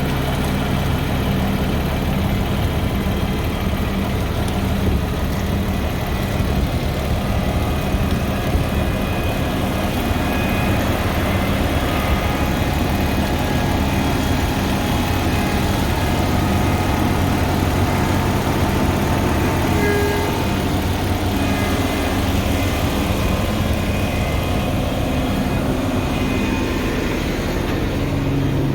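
An engine running steadily at a constant speed, with a low hum that stays even throughout.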